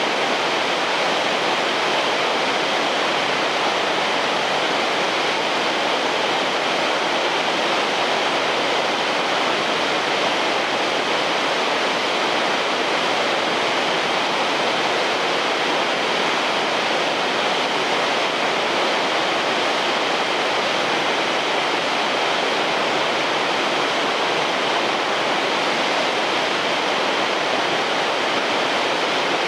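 Shirahige Falls: water pouring from a cliff face into the river below, making a steady, unbroken rush.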